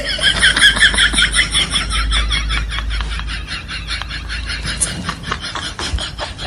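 A cat making a high, rapidly pulsing call that is strongest for the first three seconds and then weakens.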